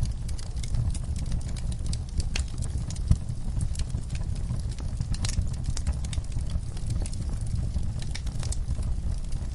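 Wood fire burning in a fireplace: a steady low rumble of flames with frequent irregular crackles and pops, one sharper pop about three seconds in.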